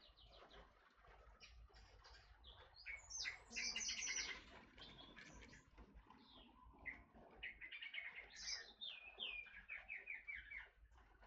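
Forest oriole (kepodang hutan) calling: quick series of high chirps and trills, busiest a few seconds in, then a stepped, falling run of repeated notes near the end.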